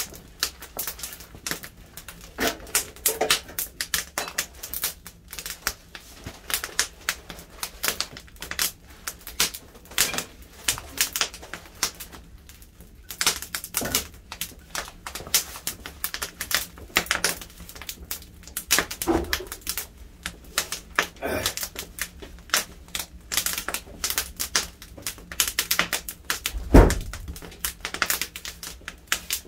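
Firewood burning, crackling with dense, irregular pops and snaps. A single heavier thump comes near the end.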